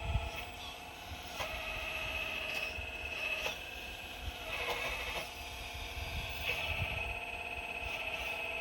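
Excavator running while digging, a steady high whine from its drive and hydraulics that changes pitch and strength every second or two as it works, with scattered low thumps.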